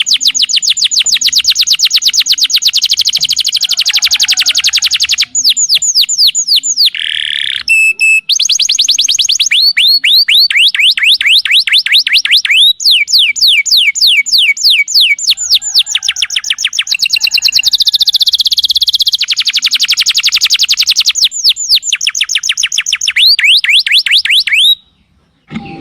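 Domestic canary singing: rapid trills of repeated down-sweeping notes, switching to a new trill every few seconds, with a brief pause near the end.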